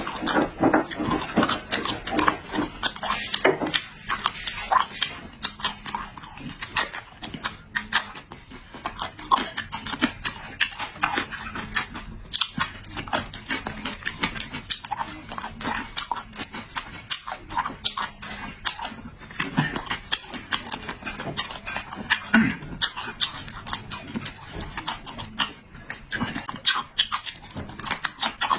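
A person eating with loud, wet chewing and lip smacking close to the microphone: a dense run of short smacks and clicks with no pause.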